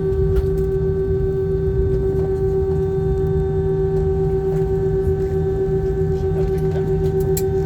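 Aircraft engines running at a constant pitch, giving a steady drone with a strong unchanging hum over a low rumble, as heard aboard the plane before takeoff.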